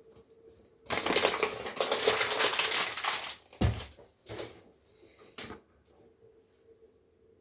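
Rapid crunching scrapes lasting about two seconds, then a single low knock and a few shorter scrapes.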